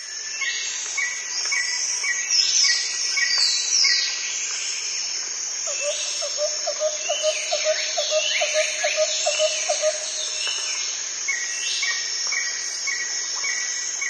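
Rainforest ambience: a steady high insect hiss under many bird calls, with whistled falling glides and short repeated notes. A fast run of low pulsed calls comes in the middle. The sound fades in from a moment of silence at the start.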